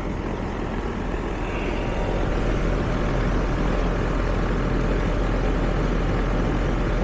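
R-410A air-conditioning system running with a steady low rush of fan and compressor noise while it is being charged: the system is low on refrigerant and is getting about a pound added.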